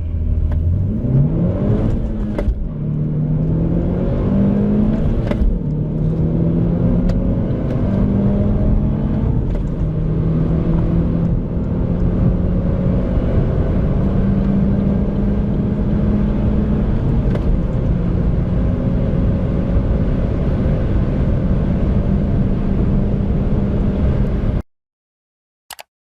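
Small turbocharged petrol hatchback accelerating hard at full throttle through the gears. The engine note climbs and drops back at each upshift, then rises slowly in a tall gear. It cuts off suddenly near the end.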